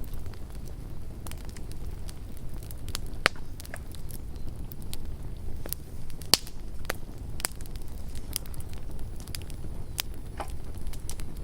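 Campfire burning with a low steady rumble and irregular sharp crackles and pops, a few louder snaps standing out.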